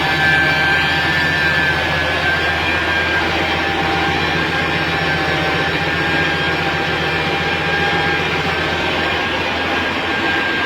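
Machinery running steadily: a dense mechanical noise with a few steady whining tones over it.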